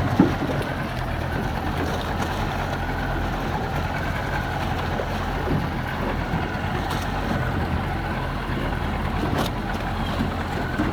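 Small motorboat under way: a steady engine drone with water rushing along the hull, and a brief knock just after the start.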